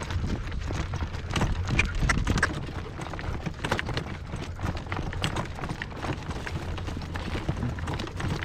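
Horse's hooves trotting on a dirt road in a steady clip-clop, with wind rumbling on the microphone.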